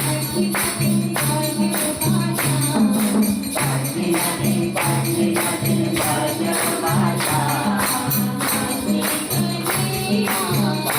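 Kirtan music with jingling hand cymbals and a steady, repeating low beat.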